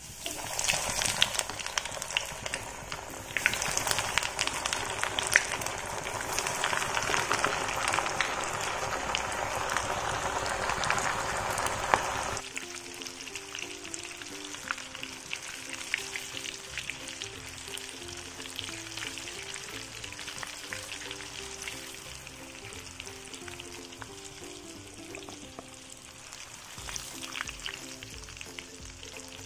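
Breaded chicken sticks deep-frying in hot oil: loud sizzling full of small crackling pops. About twelve seconds in it drops abruptly to a quieter sizzle under background music.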